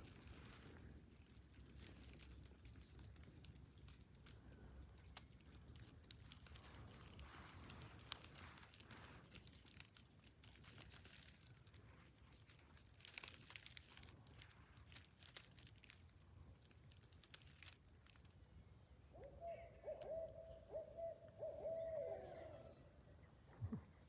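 Barred owl hooting: a run of held hoots near the end, the last sliding downward. Before it, only faint rustling and small clicks of leaves and clothing.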